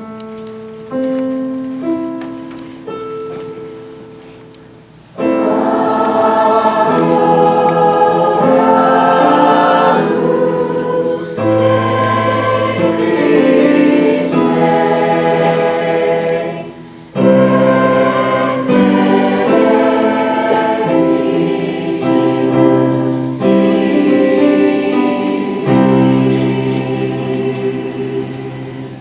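A choir singing a Christmas song with accompaniment, after a short instrumental introduction of a few held notes that lasts about five seconds.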